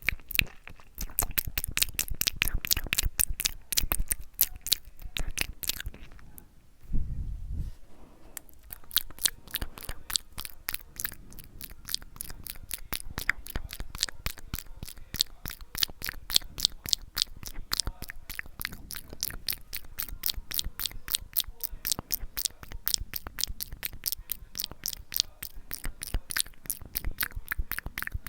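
ASMR mouth sounds: quick, wet clicks and smacks of lips and tongue close to the microphone, several a second. A short low thud about seven seconds in.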